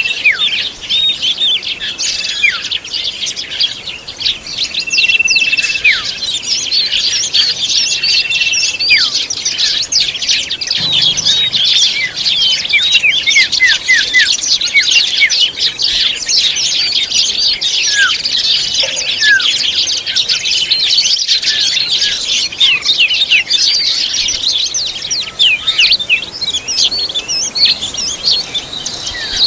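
Oriental magpie-robin (kacer) song: a dense, unbroken run of rapid chirps and quick whistled sweeps, with several long, steady whistled notes in the first nine seconds.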